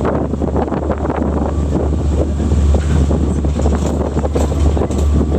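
Sightseeing tour boat's engine droning steadily, heard on board, with wind buffeting the microphone.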